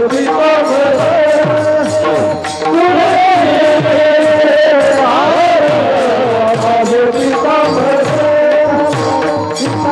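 Marathi Varkari bhajan music: a held, sustained melody with singing over it and a hand drum whose low strokes bend down in pitch several times a second.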